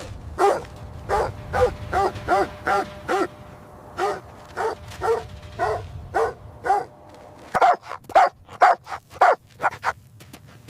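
A dog barking repeatedly: about twenty short barks, each rising and falling in pitch. They come in a quick run at first, slow down in the middle and speed up again near the end. The barking is an alert bark that the handler afterwards praises as a good alert.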